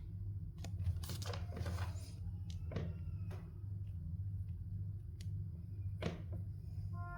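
Scattered crinkles and clicks of a surprise-egg wrapper and plastic capsule being handled, spaced a second or so apart, over a steady low hum.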